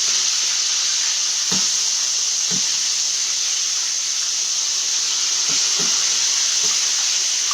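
Chicken frying in hot oil in a skillet: a steady sizzling hiss with a few faint pops scattered through it.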